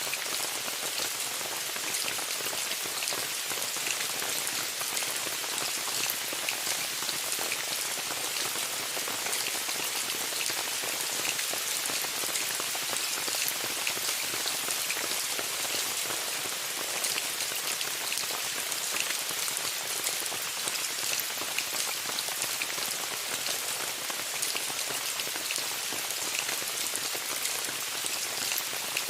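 Steady rain falling on a tent's fabric: an even hiss dense with the ticks of single drops.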